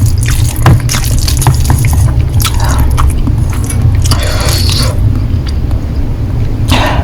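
Close-miked wet eating sounds of Korean noodles being chewed, with scattered sharp mouth clicks and short smacks over a steady low hum; the eating sounds thin out near the end.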